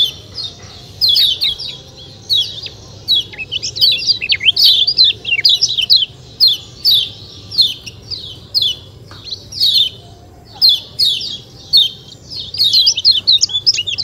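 Kecial kuning (lemon-bellied white-eye) giving its sharp 'ciak ciak' chirps: short notes that fall in pitch, repeated rapidly in clusters with brief pauses between.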